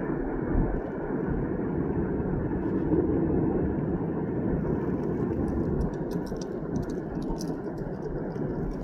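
Norfolk Southern oil train rolling past: a steady rumble of steel wheels on rail, with sharp clicks joining in about six seconds in.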